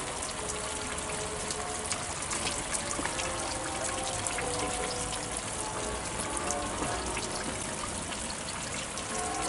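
Steady running and splashing water, with faint scattered background sounds over it.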